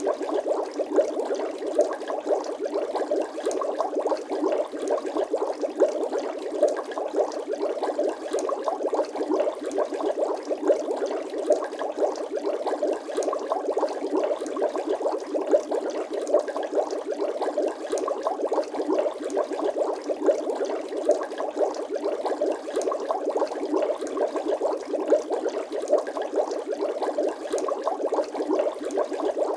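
Bubbling water sound effect: a dense, steady stream of quick small bubble pops and gurgles, with no deep low end.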